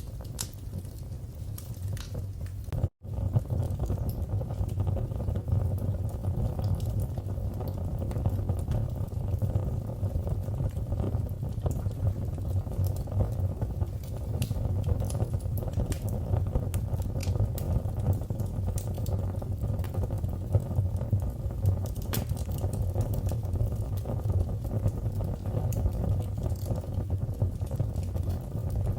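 Wood fire burning in a fireplace: a steady low rumble of flames with scattered sharp crackles and pops. The sound cuts out for an instant about three seconds in, then carries on.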